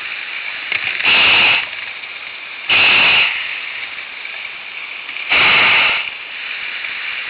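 Hot air balloon's propane burner firing in three short blasts, each under a second long, over a steady hiss.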